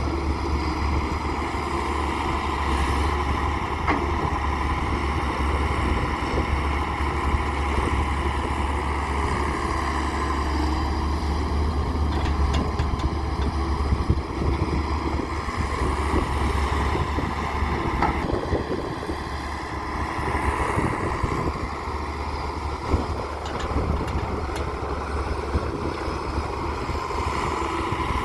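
Diesel engine of a Daewoo 170W3 wheeled excavator running steadily as it works, with a few brief knocks.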